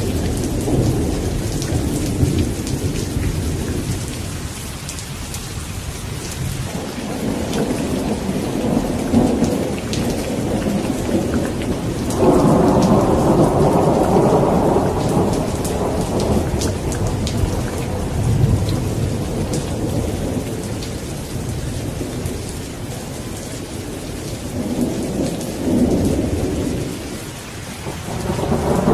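Steady rain falling with rolling thunder; a loud peal breaks suddenly about twelve seconds in and rumbles for a few seconds, with softer rumbles before and near the end.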